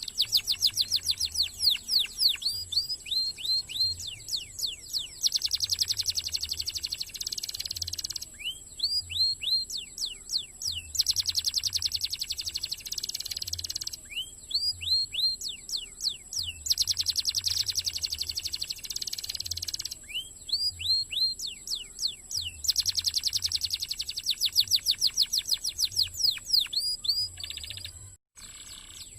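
Domestic canary singing a fast, continuous song: rapid buzzing trills alternating with runs of repeated sweeping whistled notes, each phrase lasting a few seconds. The song cuts out briefly near the end.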